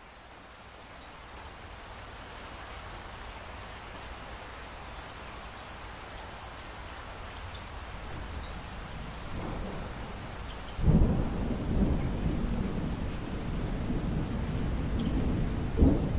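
Steady rain falling, slowly growing louder. About eleven seconds in, a loud rumble of thunder breaks in suddenly and rolls on, with another clap near the end.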